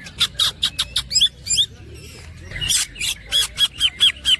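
Green leafbird (cucak ijo) singing a rapid series of sharp, repeated whistled notes in two runs, with a short pause after about a second and a half.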